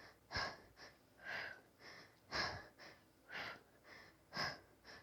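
A person's hard, rhythmic breathing from exertion during bicycle crunches: a strong exhale about once a second, with a lighter breath in between.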